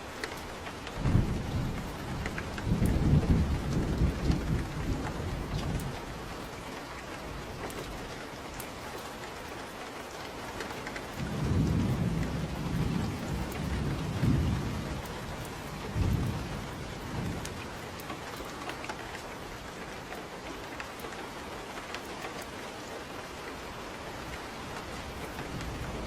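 Steady rain with two long rolls of thunder, the first starting about a second in and the second about halfway through.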